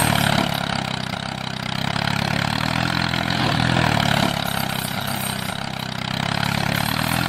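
Engine running steadily, its note swelling and easing slightly every second or so.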